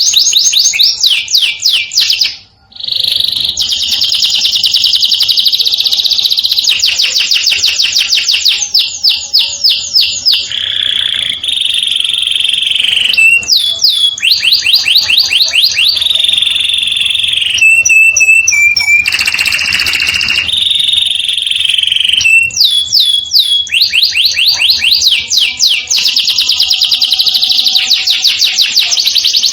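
Domestic canary singing continuously: long rolling trills of fast repeated notes, with a few held whistled notes in between. The song breaks off briefly about two and a half seconds in.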